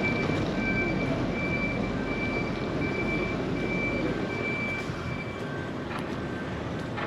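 A repeated electronic warning beep, like a vehicle's reversing alarm, sounds over the rumble of a passing vehicle. The rumble eases off after about four seconds and the beeping stops soon after.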